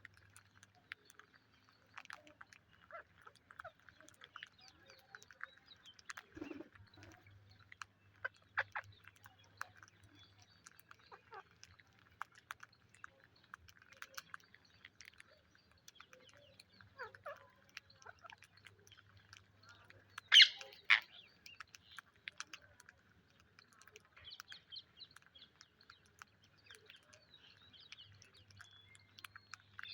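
Pet Psittacula parakeets making scattered short chirps and clicks, with one loud two-part squawk about twenty seconds in.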